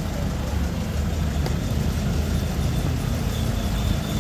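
Steady street traffic: the low rumble of motor vehicles running close by, with an even hiss over it.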